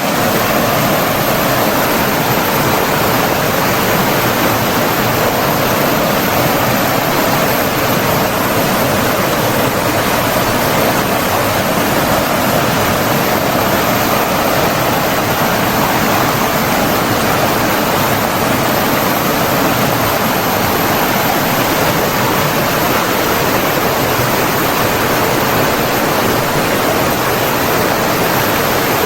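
Flowing water rushing steadily, an even, unbroken hiss like a stream or small waterfall.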